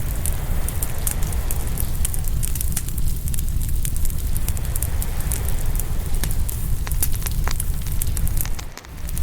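Open wood fire crackling and popping: many sharp snaps over a steady low rumble, with a brief dip in the sound just before the end.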